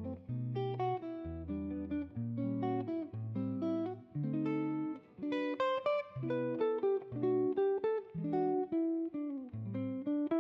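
Background music: acoustic guitar playing plucked notes over a bass line.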